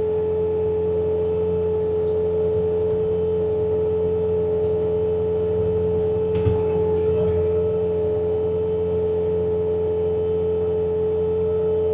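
Bobcat T66 track loader running a snowblower attachment: a steady high whine over the machine's low diesel hum, with a brief knock about six and a half seconds in.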